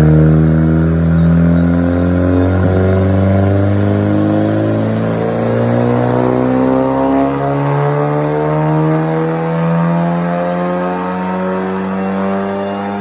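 Volkswagen Golf R's turbocharged 2.0-litre four-cylinder running under load on a chassis dynamometer, its pitch climbing slowly and steadily as the revs rise through a dyno pull.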